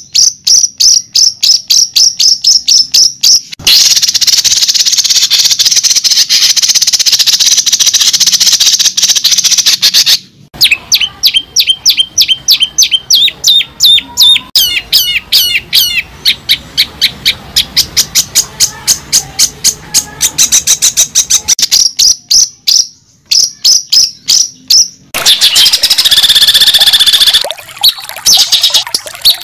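A bird singing close to the microphone: long runs of rapid high chirps and trills, several a second, in phrases broken by short pauses.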